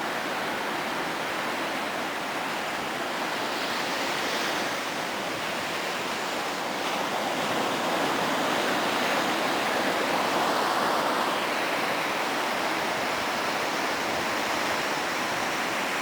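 Steady wash of ocean surf breaking on a beach, swelling a little about halfway through.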